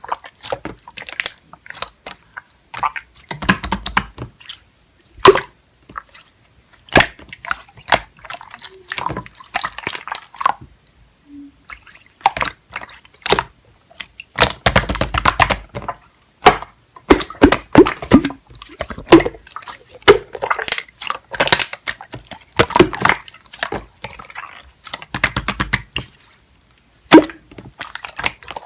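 Runny pearl slime being squished and stretched by hand, giving irregular wet squelches, clicks and pops.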